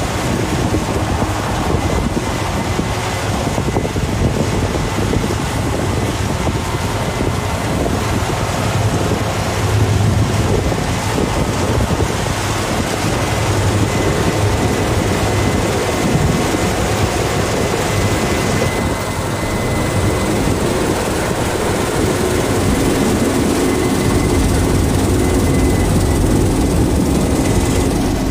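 Combine harvester working through wheat: a steady, loud mechanical drone of engine and threshing machinery, with a faint high whine running through it.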